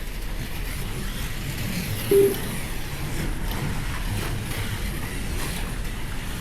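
Scale slot cars lapping the track, a steady whir of their small electric motors and tyres, with a brief short tone about two seconds in.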